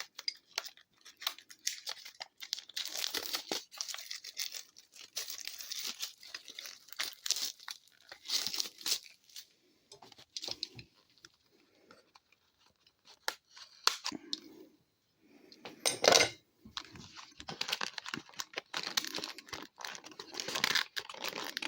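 Packaging being torn open and crinkled as a hockey card box is unwrapped: irregular tearing and rustling, with a short louder rip about two-thirds of the way in.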